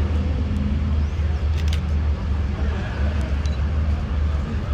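A car engine idling with a steady low rumble, with a few light clicks about a third of the way in.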